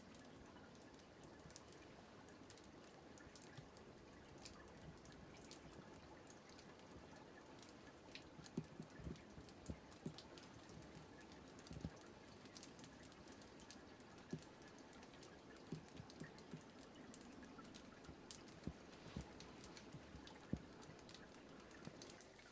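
Faint scattered clicks and taps at irregular intervals over a low steady hiss, a few of them louder.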